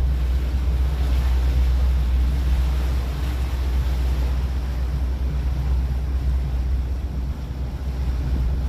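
A 30-foot boat's engine running steadily under way: a low, even drone with a rushing hiss of water and wind over it.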